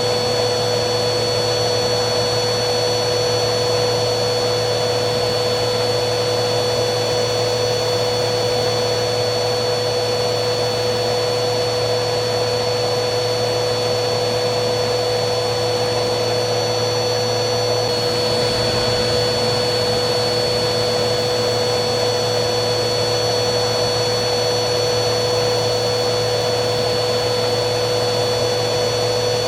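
Vacuum cleaner running steadily, a continuous motor hum and rush of air with a steady mid-pitched drone and a faint high whine over it.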